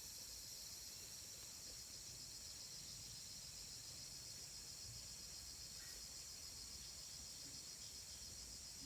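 Insects chirring: a faint, steady, high-pitched trill that pulses rapidly without a break.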